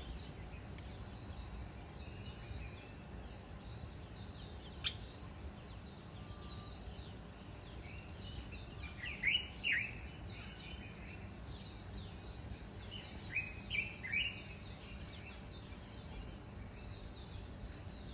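Wild birds chirping over a steady low background rumble. There are many faint short chirps, a brief click about five seconds in, and a few louder sweeping calls about halfway through and again a few seconds later.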